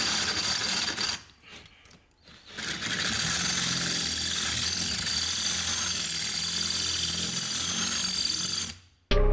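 Power drill running steadily, drilling into a bolt head to snap it off because the bolt has no Allen or Torx socket to grip. It runs for about a second, stops briefly, then runs steadily again for about six seconds; music comes in just before the end.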